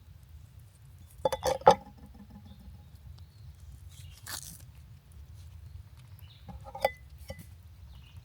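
Short clucking bird calls, a quick cluster about a second in and another near the end, over a low steady rumble.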